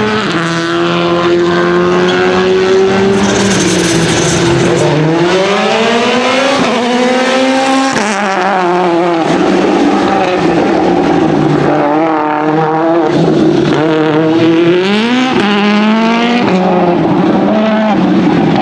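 Citroen C3 WRC Plus rally car's turbocharged 1.6-litre four-cylinder engine revving hard, its pitch climbing and dropping back several times as it accelerates and changes gear.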